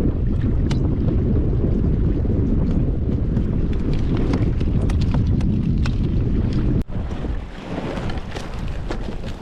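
Wind buffeting the microphone: a steady low rumble with scattered light clicks. About seven seconds in it cuts off abruptly to a quieter wash of noise.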